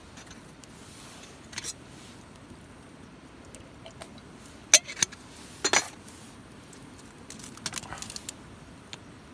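Small metal objects clinking and rattling in a few short bursts, the loudest near the middle and a brief cluster near the end, over a steady low background hiss.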